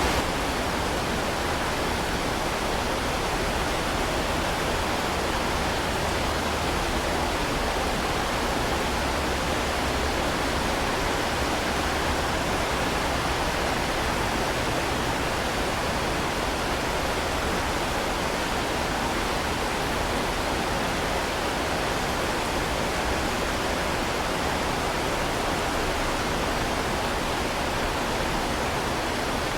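Heavy rain falling, a steady, dense hiss with no breaks or individual drops standing out.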